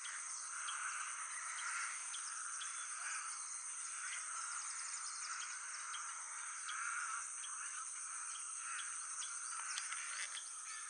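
Outdoor wetland ambience: a steady, high-pitched insect drone with many short bird chirps scattered over it.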